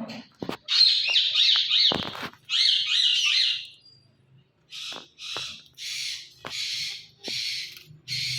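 Indian ringneck parakeet calling: two loud, shrill chattering phrases with wavering pitch, then a run of short squawks repeated about twice a second.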